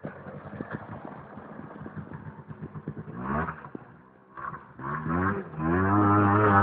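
Mini bike's small engine popping unevenly at a low, rough idle, then revved in short rising bursts about three and five seconds in, and held at higher revs near the end.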